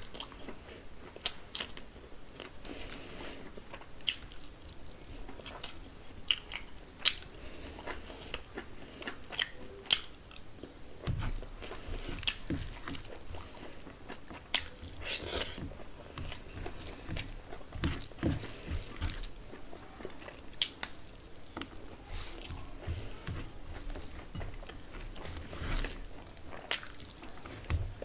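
Close-miked eating: chewing with wet mouth sounds and sharp smacking clicks at an irregular pace.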